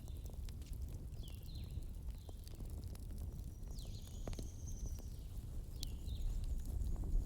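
Wood fire burning with a steady low rumble and scattered sharp crackles and pops. A few short, high, falling chirps come through now and then.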